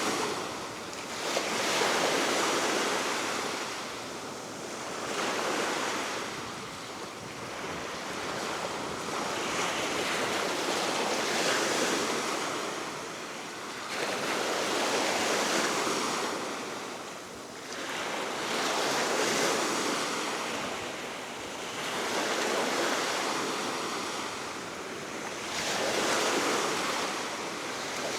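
Baltic Sea waves breaking and washing up the shore, a rushing surge that swells and falls back every few seconds, with steady wind blowing.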